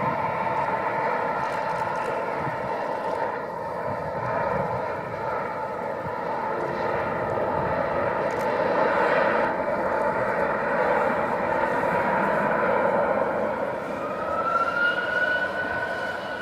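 Airbus A350-900's Rolls-Royce Trent XWB jet engines running steadily as the airliner comes in to land, a rush of jet noise with a steady whine. A higher whine rises in pitch near the end and then holds.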